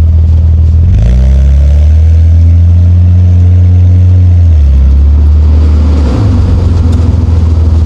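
Nissan Skyline R34 GT-T's turbocharged straight-six running under way. Its note steps up about a second in and holds, drops a few seconds later, then rises again near the end.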